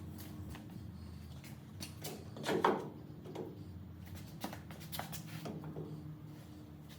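Scattered knocks and clunks of parts and tools being handled during exhaust pipe work, the loudest about two and a half seconds in, over a low steady hum.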